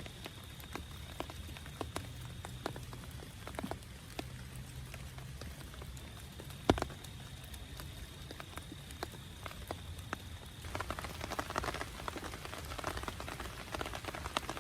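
Rain on a small tent: scattered drops tapping on the fabric over a low hiss, with one much louder tap about halfway through. The drops come thicker near the end.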